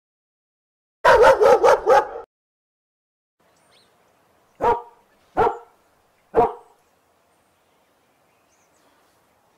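Dogs barking: a quick run of about five barks about a second in, then after a pause three single barks spaced about a second apart.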